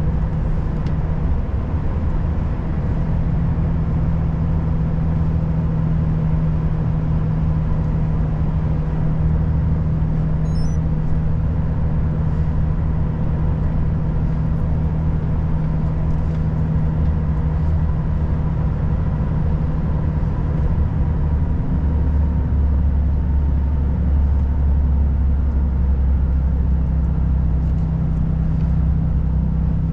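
Volvo FH540 truck's straight-six diesel engine running steadily under way, with road noise. A deeper low drone strengthens about two-thirds of the way through.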